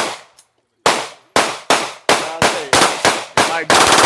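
Rapid pistol fire from a handgun fitted with a forced-reset trigger: one shot, a short pause, then a quick string of shots about three a second that speeds into a near-continuous burst near the end.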